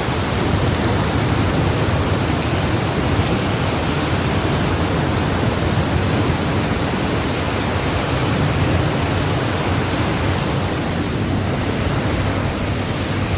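Heavy rain falling, a loud steady hiss with a low rumble underneath and no change throughout.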